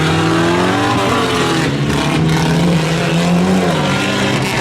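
Stock pickup truck engine revving hard under throttle. Its pitch climbs, dips about a second in, climbs again, then falls near the end.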